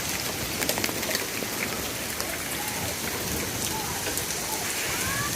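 Torrential rain pouring down, a steady hiss of rain with many sharp drops striking close by.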